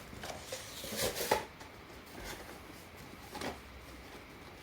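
Soft paper rustling and light knocks from a poster being handled, loudest about a second in and again at about three and a half seconds.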